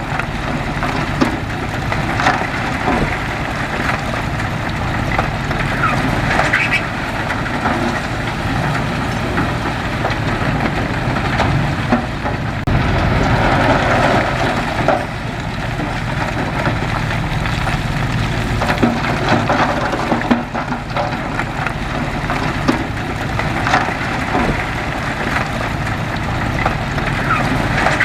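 Bulldozer's diesel engine running steadily, with frequent short knocks and rattles over it.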